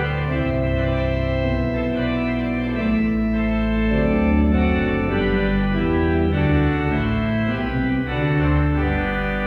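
Church organ playing slow, sustained chords that change about every second.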